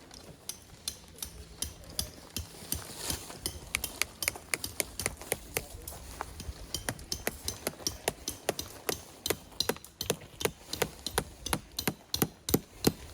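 A long run of sharp, irregular clicks and knocks, a few a second, growing denser and louder toward the end.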